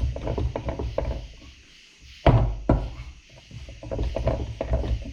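Workshop handling noise around a hydraulic cylinder and bench vise: a run of knocks, clunks and rattles, with two loud thuds about two seconds in.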